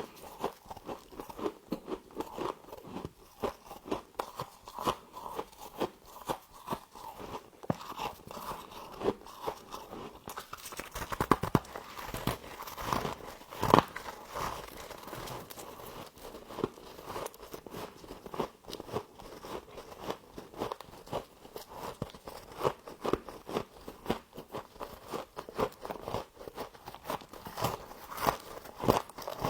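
Close-up biting and chewing of humidifier frost: rapid, crisp crunches and crackles, with a run of louder bites about halfway through.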